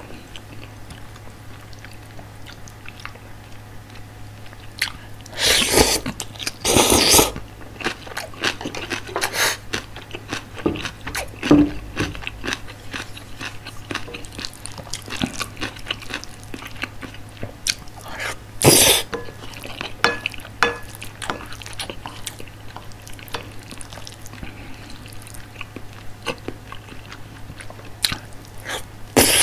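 Close-miked chewing of soft curry rice: wet mouth clicks and smacks throughout. A few louder short noisy bursts come twice about six seconds in, once past the middle and once at the very end.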